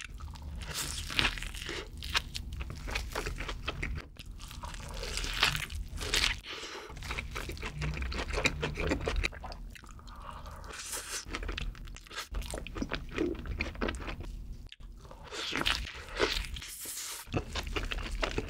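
Close-miked eating sounds: crunchy bites and wet chewing of thick handmade bacon cheeseburgers and garlic butter fries, a series of mouthfuls with short breaks between them.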